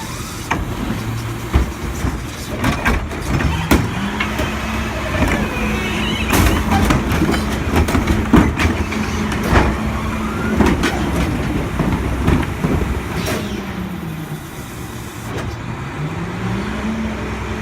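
Diesel engine of a Mack LEU garbage truck with a Heil body revving up to a steady higher speed, as it does when the body's hydraulics are working, with repeated sharp clanks and bangs. The engine drops back about two-thirds of the way in, then revs up again near the end.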